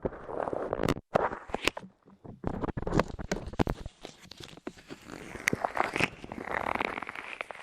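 Light clay being pressed onto, squeezed against and pulled off a microphone's ears, close up: irregular sticky crackles and clicks with rustling, and a couple of brief pauses.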